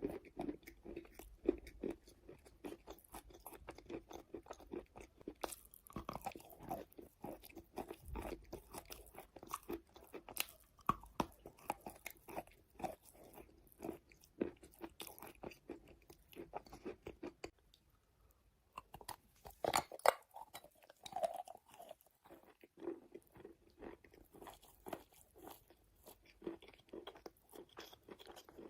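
Wet chalk being bitten and chewed close to the microphone: a steady run of soft, moist crunches, with a short lull about eighteen seconds in and a louder cluster of crunches just after.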